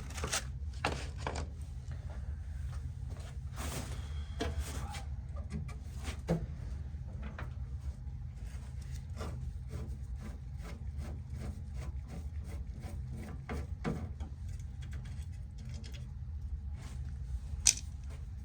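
Repeated hand rubbing strokes, about two a second, over a steady low hum, with a sharp click near the end; a brush or sanding pad worked over the sanded car-body metal ahead of priming.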